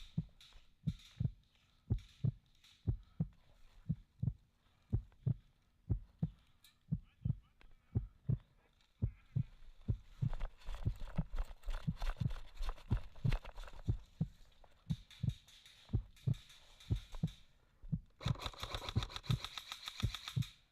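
Steady footsteps, about two a second, heard as low thuds through a body-worn camera while a player walks. Near the end comes a dense, rapid rattle lasting about two seconds.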